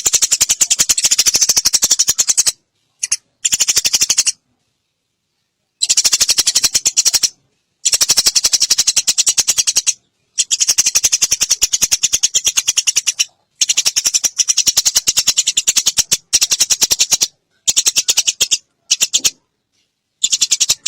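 Eurasian tree sparrows' fighting chatter: very fast, high, dry chirps in bursts of one to three seconds, each burst starting and stopping abruptly, with short silent gaps between.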